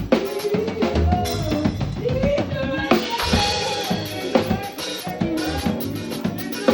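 Live band music driven by a drum kit, with kick drum, snare and cymbal hits keeping a steady beat under a bending melody line.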